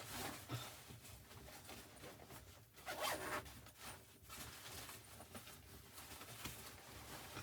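A zipper being pulled in a series of short rasping strokes, the loudest about three seconds in.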